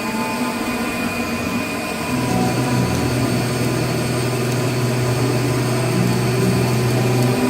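CNC lathe running with a steady machine hum made of several tones. A louder, deeper hum joins about two seconds in and cuts off just before the end, as a motor on the machine runs and stops.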